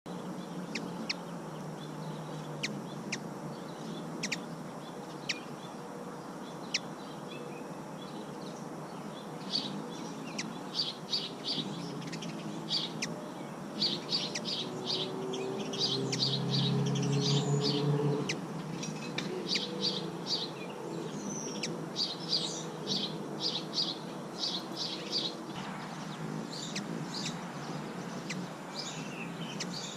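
Small birds calling outdoors: sharp single chips every second or so at first, then quick runs of high chirps from about ten seconds in. A low drone swells and fades about halfway through.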